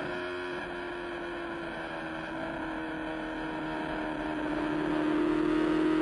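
MV Agusta racing motorcycle engine running hard at high revs, one steady note that sags slightly and then holds, growing louder about four seconds in.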